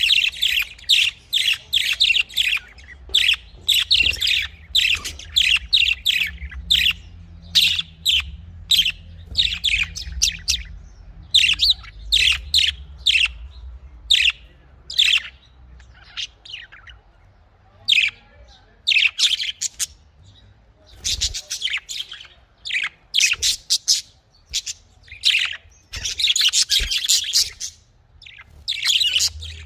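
Budgerigars chirping and chattering, many short sharp chirps in quick clusters with brief pauses, over a faint low hum in the first half.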